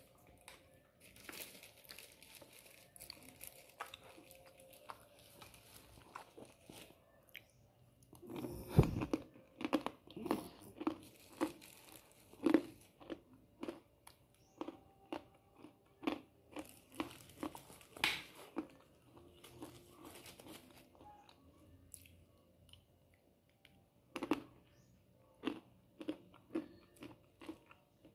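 A person chewing a crunchy snack: a run of crisp crunches about two a second, with a few seconds' pause and then more crunches near the end.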